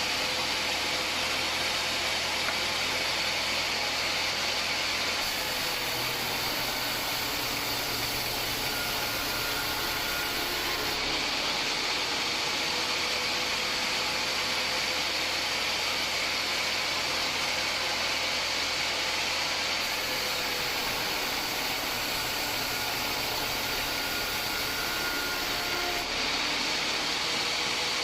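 Homemade band sawmill running with a steady mechanical noise. Its tone changes for several seconds twice, about five seconds in and again about twenty seconds in.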